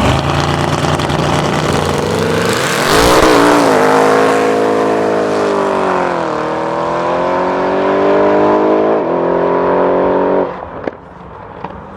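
Modified car's engine accelerating hard, its pitch climbing and dropping back at shifts about six and nine seconds in. The sound cuts off suddenly about ten and a half seconds in.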